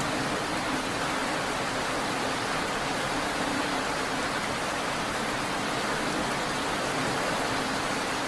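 Steady, even rainfall, a constant hiss of rain with no breaks, over a faint low steady hum.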